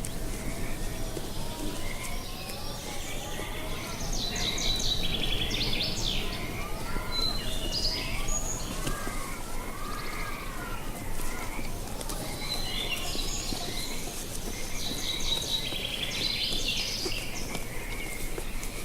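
Birds singing in two bursts of rapid high chirping phrases over a steady chorus of frogs calling.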